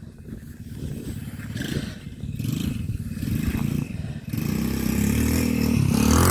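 RC quad bike's motor revving in bursts, then running up louder and higher over the last two seconds as it is driven hard at full throttle.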